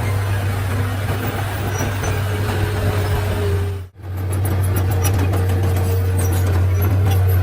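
Komatsu D31-P bulldozer's diesel engine running steadily with a low drone. The sound drops out for a moment about four seconds in, then the same drone carries on.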